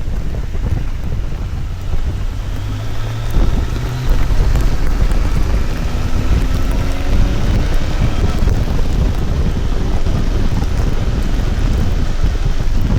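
Motorcycle riding, with heavy wind buffeting on an action camera's microphone. Beneath the wind the engine note climbs as the bike accelerates a few seconds in, then settles into a steady run.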